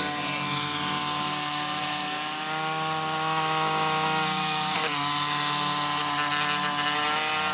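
An electric power tool running continuously at a steady pitch, with a bright hiss over its hum.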